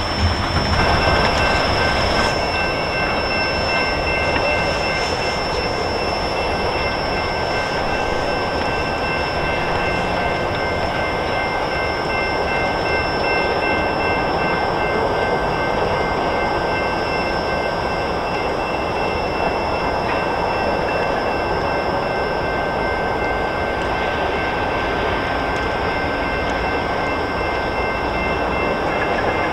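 Long CN freight train of tank cars rolling slowly on jointed track with a steady rumble, and thin, high, steady squeals from the cars' wheels as it slows down.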